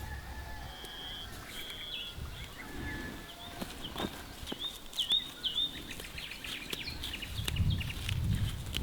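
Small birds chirping, short high calls and quick hooked whistles repeated through the middle, with a few scattered clicks and a low rumble swelling near the end.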